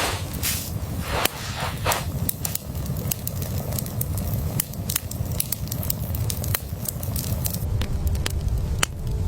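Irregular sharp crackles and pops over a steady low rumble.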